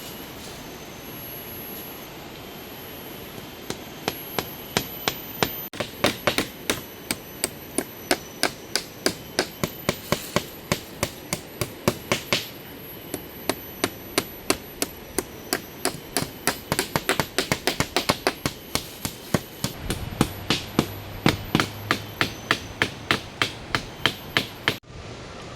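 A hammer striking wood again and again in a steady run of blows, about two to four a second.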